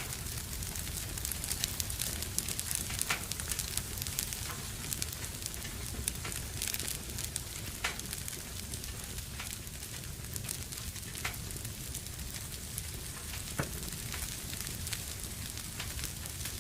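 Fire burning in a fireplace: a steady hiss with frequent sharp crackles and pops.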